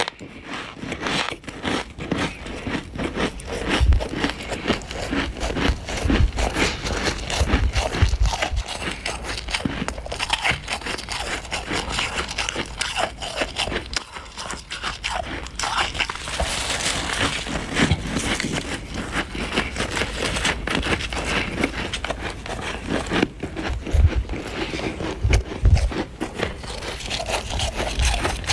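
Crunchy freezer frost being scraped and crunched: a dense, continuous crackling crunch, with a few dull low thumps along the way.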